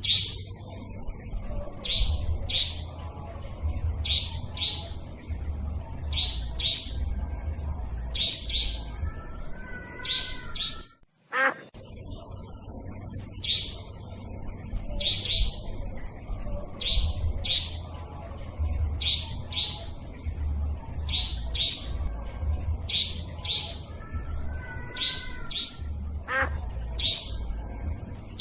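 Lure recording of nightjar (burung cabak) calls: short, sharp, high-pitched notes in close pairs, repeating about every second and a half over a low rumble. The track cuts out briefly about eleven seconds in and starts again.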